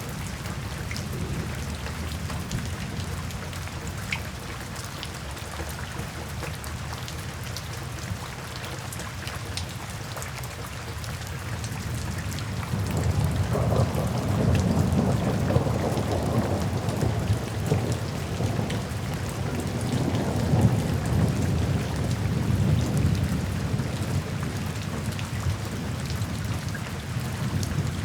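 Steady rain falling, with a long low rumble of thunder that swells about halfway through and rolls on for ten seconds or so before easing.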